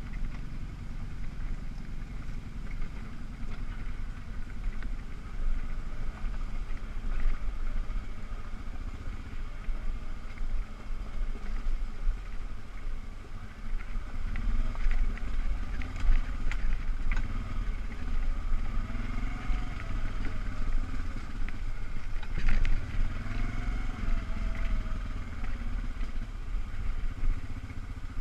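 ATV engine running with the throttle varying, its note swelling briefly a couple of times, over a steady deep rumble with occasional rattles and knocks.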